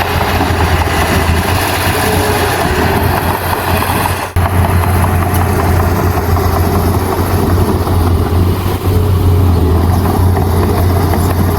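A Komatsu bulldozer's diesel engine running steadily under work, a constant low drone with mechanical noise above it. There is a brief drop in the sound about four seconds in.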